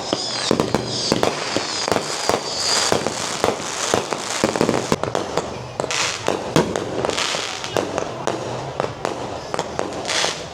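A rapid, irregular series of sharp pops and bangs over a noisy background, with a high whistle that falls slightly in pitch during the first few seconds.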